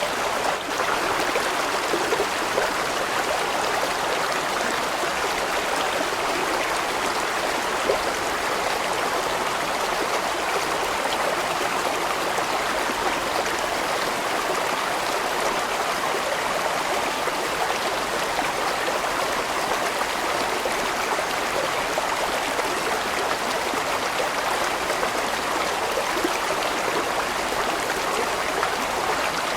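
Large mountain stream flowing steadily, water rushing and splashing over rocks.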